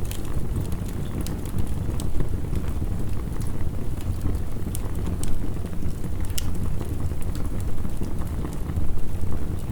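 Crackling wood fire with scattered sharp pops and snaps over a steady low rumble of heavy rain.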